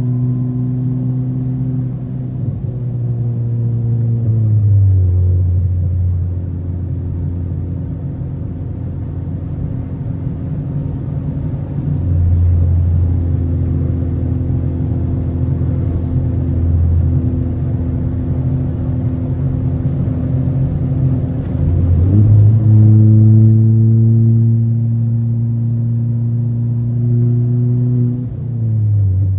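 Ford Fiesta ST's turbocharged 1.6-litre four-cylinder engine heard from inside the cabin, running at a steady drone while the car drives. Its pitch drops about four seconds in and holds lower, rises again a little past twenty seconds, and drops once more near the end.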